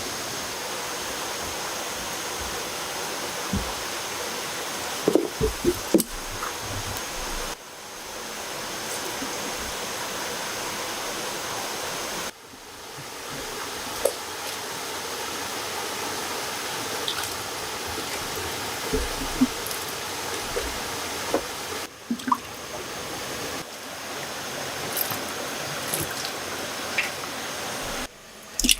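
Steady rushing water with scattered short knocks and clicks over it. The water sound cuts off and resumes abruptly several times.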